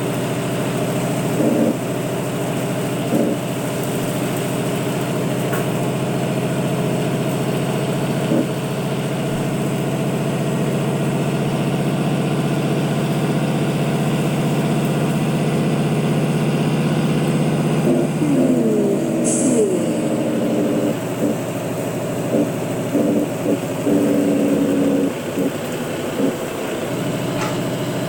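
Heavy truck engine running steadily. About two-thirds through, the engine note shifts with a few short pitch slides, and there is a brief hiss like air being released.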